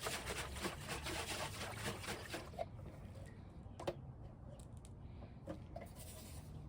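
Rustling and small clicking handling noises for about two and a half seconds, then a quieter stretch with one sharp click near the middle.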